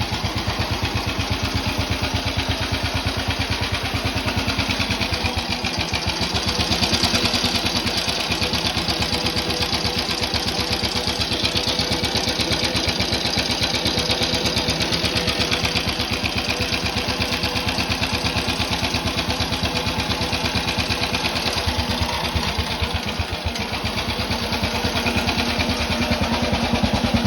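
Engine of a 1928 New Henley motorcycle running steadily at idle with an even, rapid firing beat. It swells slightly about seven seconds in and again near the end.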